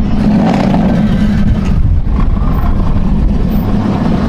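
Loud, steady low rumble of a vehicle engine with road noise.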